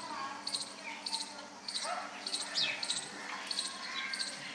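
Short, high chirps repeating about twice a second, with fainter sliding chirps lower down between them.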